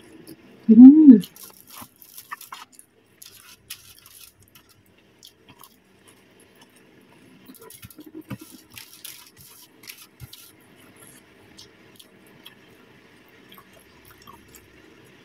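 Close-miked chewing of French fries and crispy fried chicken: scattered soft crunches and clicks, busiest in two spells. About a second in, a brief loud hum that rises and falls in pitch from the eater.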